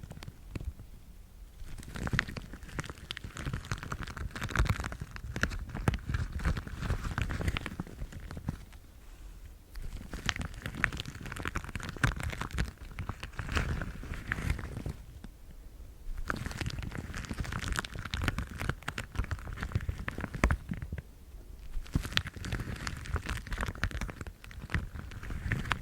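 Yellow household rubber gloves worn on the hands, rubbed and handled to make crinkly, crackling sounds full of small clicks. The sound comes in stretches of a few seconds with short pauses in between.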